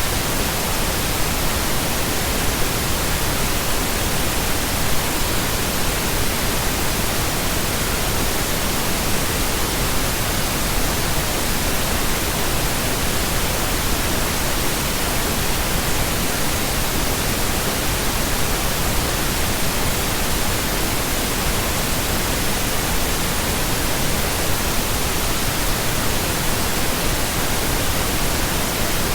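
Steady synthetic pink noise: an even, unchanging hiss spread across all frequencies, with no breaks.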